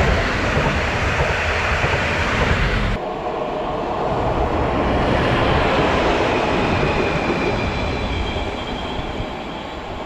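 A train rolling past close by, steady rumble and rattle of wheels and cars on the track. About three seconds in the sound changes abruptly to another stretch of rolling train noise, with faint high ringing tones from the wheels in the second half, fading toward the end.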